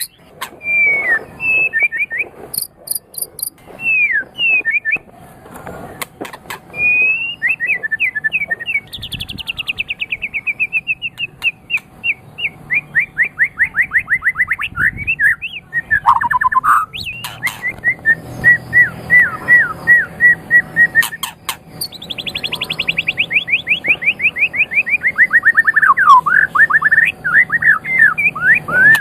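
White-rumped shama (murai batu) singing a long, varied song: loud whistled phrases, fast trills of quick falling notes, and runs of rapidly repeated notes, broken by short pauses.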